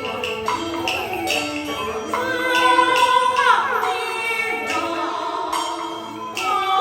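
Beiguan opera music of the Fulu (福路) style: a singer's voice over a pitched melodic accompaniment, punctuated by fairly regular percussion strokes, growing louder about two seconds in.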